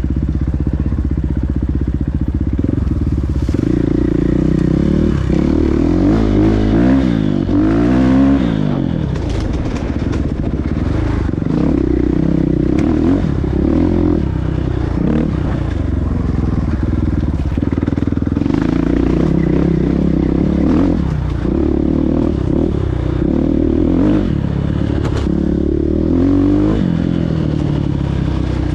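Motocross dirt bike engines revving, their pitch rising and falling again and again as the throttle is opened and shut. More than one bike can be heard at once, and the revving is loudest about a quarter of the way in.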